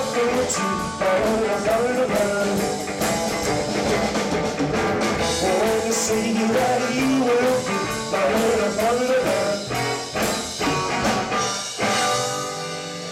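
Live rockabilly band playing the instrumental close of a song, with no singing. About twelve seconds in the band stops on a held chord that rings and slowly fades.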